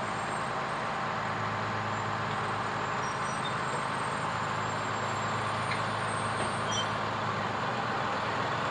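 Fire truck engine running with a steady low hum, unchanging throughout.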